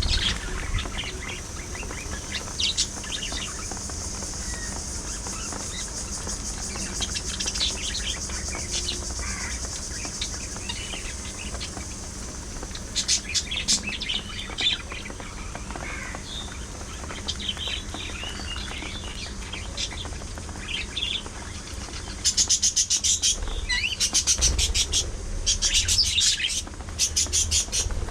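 Budgerigars chattering and chirping continuously in a steady high warble, with louder bursts of rapid chirping about halfway through and again over the last several seconds.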